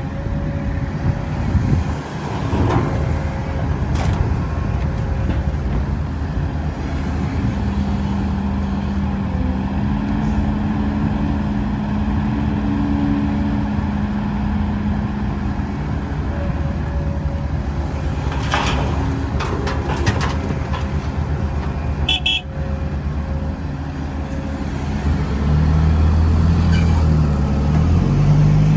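Heavy diesel machinery running: excavator and dump truck engines at work on an earth dig. A steady held tone sits in the middle for several seconds, with a few sharp knocks along the way, and a low engine rumble gets louder near the end.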